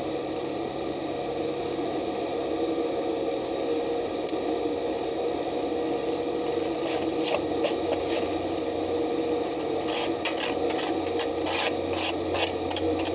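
Repeated hand scraping strokes on steel, about three a second, over a steady hiss. They begin about seven seconds in and become steady and rapid near the end.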